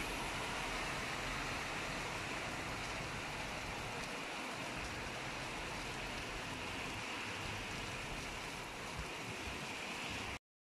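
Steady rain falling on a paved street and pavement, an even hiss without distinct drops. It cuts off abruptly just before the end.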